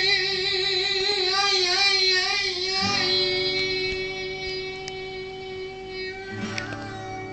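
A high voice singing with a wide, wavering vibrato for about the first three seconds, over steady held notes that carry on after it stops.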